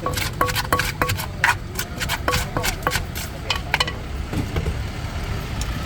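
Pestle pounding in a clay mortar, making som tam: a steady rhythm of hollow knocks, about two or three a second, that stops about two-thirds of the way through.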